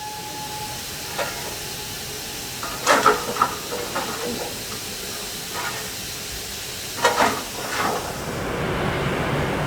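Steam locomotive hissing steam, with a handful of short sharp metallic knocks, the loudest about three and seven seconds in. A low rumble builds near the end.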